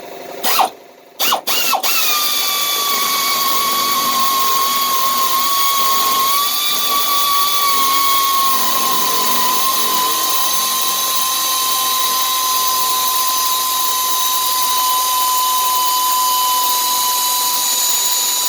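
Power tool (a drill or powered ratchet) spinning out a long transmission bolt. It gives a few short trigger pulls, then runs for about seventeen seconds as one steady whine and stops at the end.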